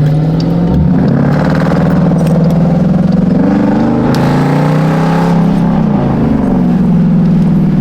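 Car engine under way, rising in pitch as it accelerates, then easing off about two-thirds of the way through and settling to a steady cruise.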